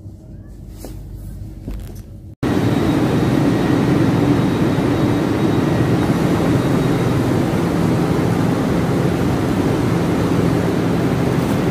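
Train noise: a low rumble from inside the moving train, then, after an abrupt cut about two seconds in, a loud steady rush and hum with a few low droning tones, from a train standing at an underground platform.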